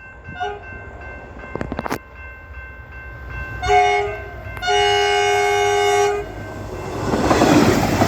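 Diesel railcar sounding its horn twice at a level crossing, a short blast then a longer one, before its passing rumble builds near the end. A level-crossing bell rings steadily in the background.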